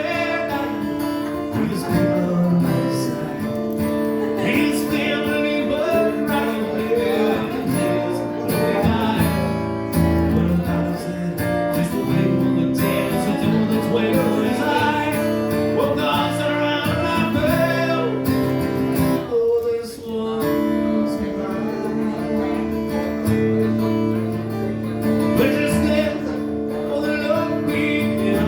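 Instrumental music with a strummed acoustic guitar, with no singing.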